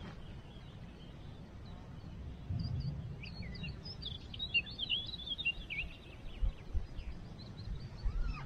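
A small bird singing a quick run of high chirps, starting about three seconds in and lasting around three seconds, over a steady low background rumble.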